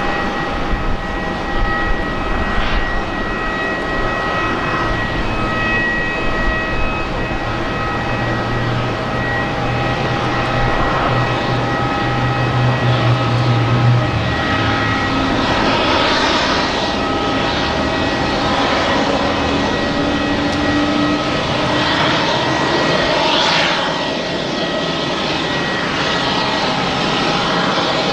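Airbus A350-941 jet airliner running, a steady roar with several steady high-pitched whine tones over it. A low hum swells about a third of the way through, then fades.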